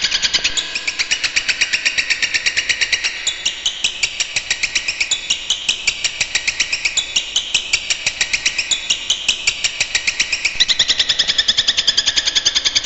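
A cendet (shrike) singing a fast rolling trill: a rapid, even train of sharp high notes, about ten a second, with the pitch stepping up and down in waves.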